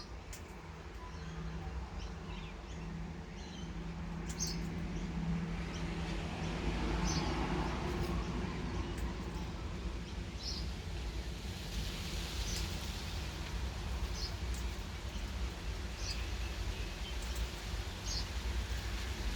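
Birds giving short, high chirps every second or two over a steady low outdoor rumble, with a low hum in the first several seconds.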